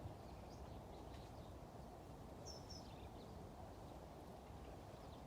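Faint outdoor background hum with a few faint, high chirps from small birds, the clearest pair about two and a half seconds in.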